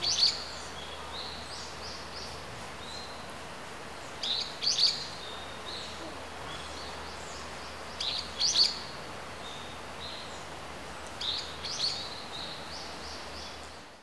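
Wild songbirds singing: a quick burst of short high notes about every four seconds, with softer single chirps between, over a steady faint hiss.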